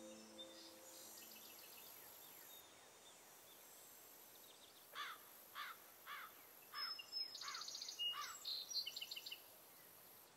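Ambient music with singing-bowl-like tones fading out in the first second, then faint birdsong: a series of short descending whistles, about two a second, followed by a higher, rapid trilled phrase.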